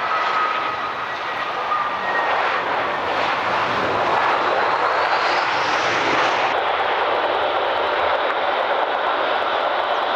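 Airbus A320's two CFM56-5B turbofan engines passing close on landing: a high fan whine that slides slightly lower in pitch, giving way to a loud steady rush of jet noise.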